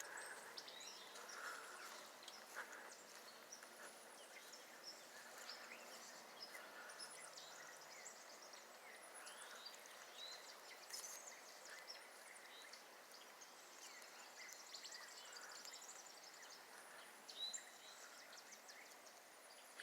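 Faint, distant wild birdsong: scattered short chirps and whistled notes from several birds over soft outdoor background hiss, with a brief, slightly louder sound about two seconds before the end.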